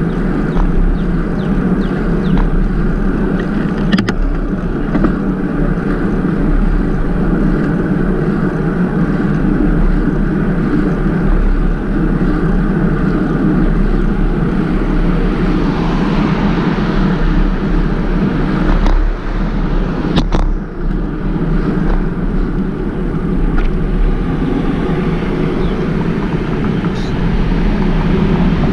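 Wind rushing over a GoPro's microphone while riding a bicycle: a steady, loud rumbling rush, with a few short clicks.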